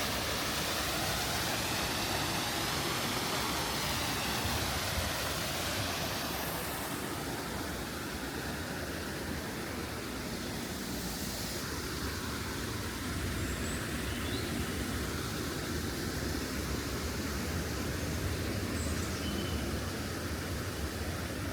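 Steady street traffic noise with a low rumble. In the first few seconds a vehicle passes with a wavering rush that fades, and a few faint short chirps sound later on.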